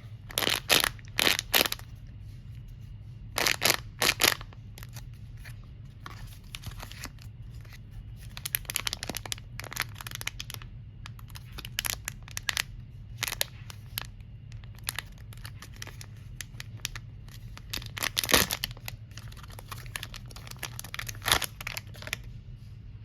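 Packaging being torn open and crinkled by hand. There are several loud tearing strokes in the first few seconds, then scattered rustles and crackles with one louder burst past the middle, over a steady low hum.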